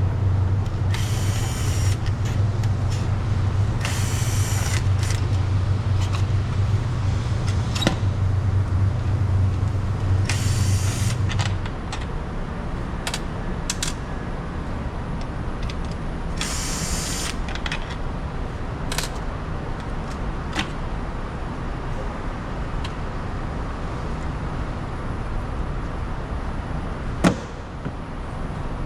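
Hands working a fitted electrical unit in a compartment: several short bursts of scraping and rattling, a few sharp clicks and one loud knock near the end. Under them a steady low hum that cuts out about twelve seconds in.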